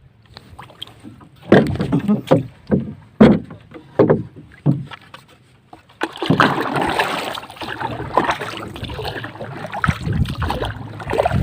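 Small wooden paddle boat being paddled: a run of about eight sharp paddle knocks and splashes, then, about six seconds in, a steady rush of water.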